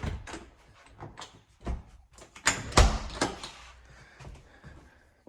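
A door being opened and shut while someone goes in from a deck. There are separate knocks at the start and about a second and a half in, then a louder cluster of clunks and a rattle about two and a half to three seconds in.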